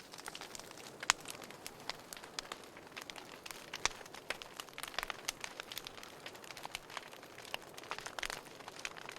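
Wood fire crackling in a fireplace: a soft steady hiss with many irregular sharp pops and snaps, the sharpest about a second in.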